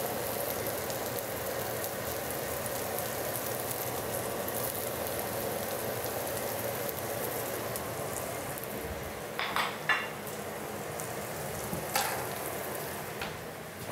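Smashed Yukon gold potatoes sizzling in butter in a cast iron skillet: a steady frying hiss. A few light knocks come about two-thirds of the way through and again near the end.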